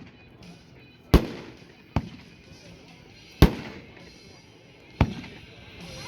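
World Class Deadly Strike, a 500-gram consumer firework cake, firing: four sharp, hard-hitting bangs spaced about a second or more apart, each trailing off in a short rumble.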